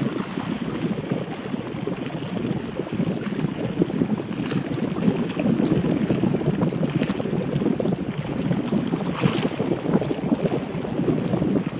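Wind buffeting the microphone: a steady, low, noisy rumble.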